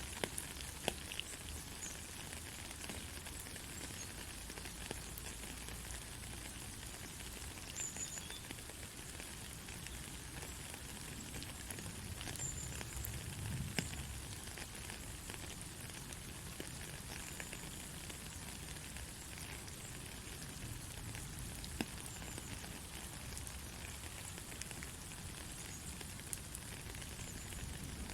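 Gentle rain falling steadily: a soft, even hiss of patter full of small drop ticks, with an occasional slightly louder drop.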